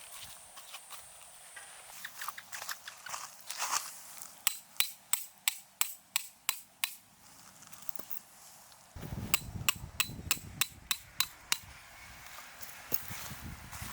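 Repeated sharp knocks, like hammer blows: a quick, even run of about four a second, then a pause, then a second run a few seconds later.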